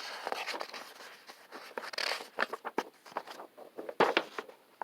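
Paper rustling with irregular light clicks and crackles: the pages of a picture book being handled and turned.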